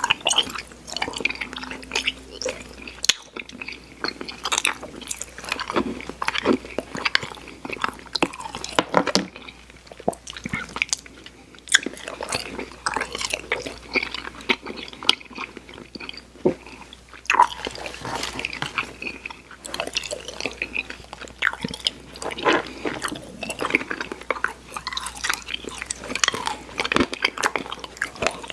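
Close-miked mouth sounds of chewing soft, chewy sour candy: steady, irregular wet smacks and sticky clicks as the candy is worked between the teeth.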